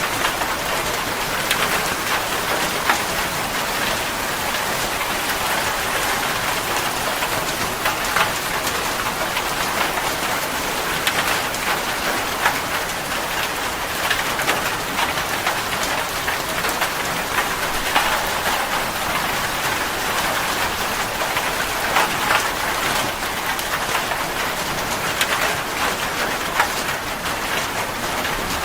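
Steady rain falling, a dense hiss with scattered close drops ticking on a surface.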